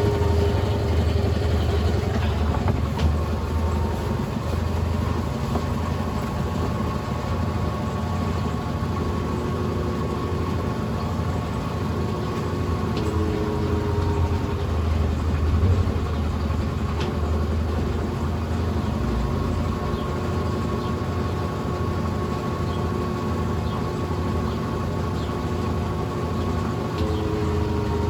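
Brastemp Ative 11 kg BWL11 washing machine running, a steady low motor hum with a higher motor tone that shifts slightly in pitch about every 14 seconds.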